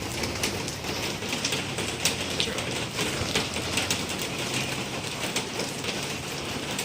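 Steady rain falling, with many drops ticking sharply on a hard surface close by and a faint low hum underneath.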